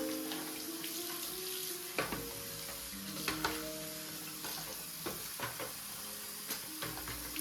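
Steady sizzling hiss with scattered small clicks and pops, as of food frying, under soft background music with held notes.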